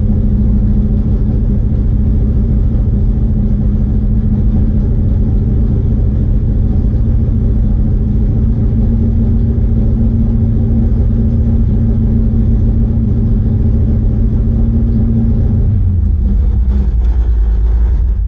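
Mopar car engine running steadily at about 2,000 rpm, held at its staging rpm against the brakes while its vacuum is checked to choose a carburettor power valve. Near the end the engine note drops lower as the revs come down.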